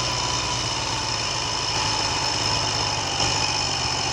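Triumph Trident three-cylinder motorcycle engine idling steadily, with an even tick over and a thin steady high whine above it.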